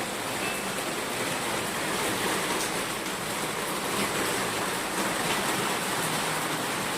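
Samsung top-load washing machine test-running with its newly replaced clutch, a steady rush of water in the tub. It is running normally again.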